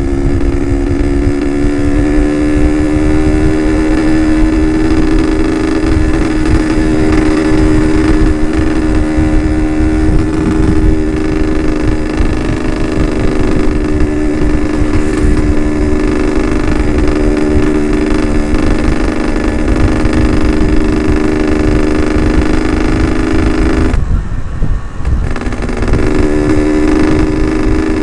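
Yamaha RX-King 135's ported two-stroke single-cylinder engine running at a steady cruise while riding, with heavy wind noise on the helmet-mounted microphone. The engine note rises a little in the first few seconds, drops away for about two seconds near the end, then comes back.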